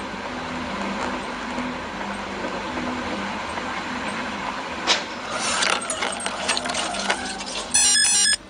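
Steady vehicle running and road noise. One sharp knock comes about five seconds in, followed by a scatter of clicks and rattles, and a loud stepped tone sounds for about half a second near the end.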